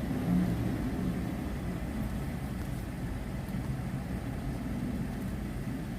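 Car engine idling with a steady low hum, heard from inside the car.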